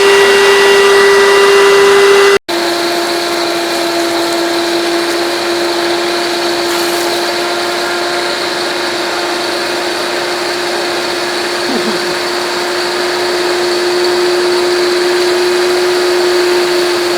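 Hoover Dimension Supreme vacuum cleaner motor running steadily with a constant whine. About two and a half seconds in, the sound cuts out for an instant and resumes at a slightly lower pitch, then creeps up again slowly.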